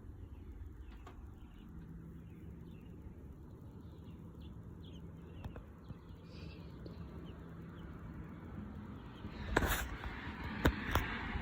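Faint, high cheeping of newly hatched nestlings, a quick run of short chirps. Near the end come several sharp knocks and rustles, louder than the chirps.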